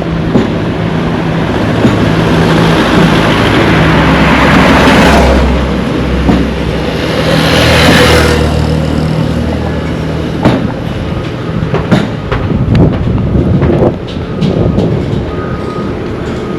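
Motor vehicles passing close by, their engine and road noise swelling to two peaks about five and eight seconds in over a steady low hum, followed by scattered clicks and knocks.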